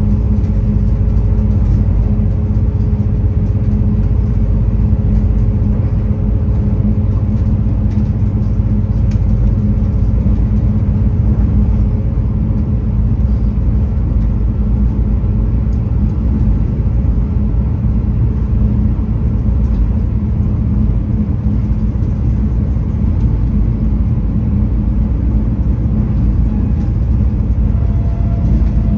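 V/Line VLocity diesel railcar running, heard from inside the carriage: a steady rumble of engine and wheels on the track, with a low hum held through it.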